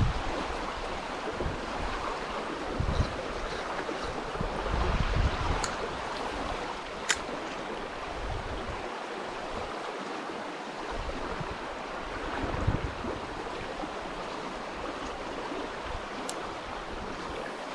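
Steady rush of river water, with gusts of wind buffeting the microphone now and then and a few short, sharp clicks.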